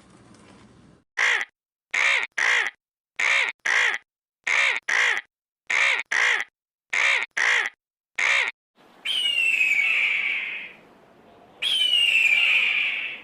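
Bird calls: a run of eleven short, harsh calls, mostly in pairs, followed by two long cries that fall in pitch.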